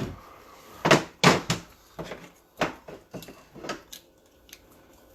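A run of sharp knocks and clunks from things being handled and set down on a workbench, the loudest two about a second in, followed by several lighter taps.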